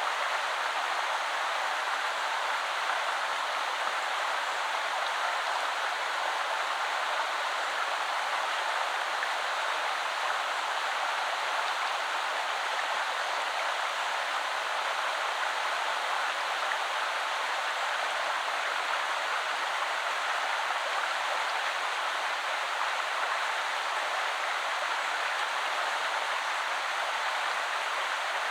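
River water flowing over stones, a steady rushing and babbling with no breaks.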